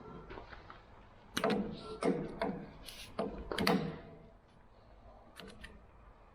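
Knocks and clatter from hooking a rotary broom attachment up to a tractor. There is a cluster of sharp, loud strikes between about one and four seconds in, then a few light clicks.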